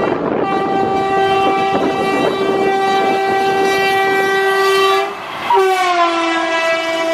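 Indian Railways locomotive horn sounding a long blast over the rumble of a passing train; after a brief break about five seconds in it sounds again, falling in pitch as the train goes by.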